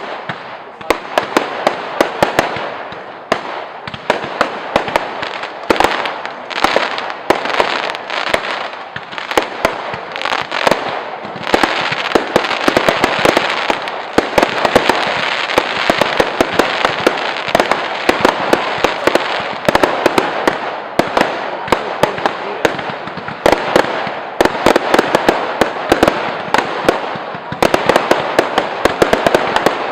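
Fireworks display: a rapid, unbroken barrage of sharp bangs over dense crackling, thickening into a heavier volley through the middle.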